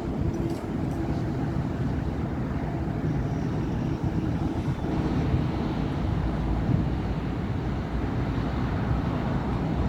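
Steady rumble of city avenue traffic: car and bus engines and tyres passing continuously. A pitched engine hum fades out about a second in.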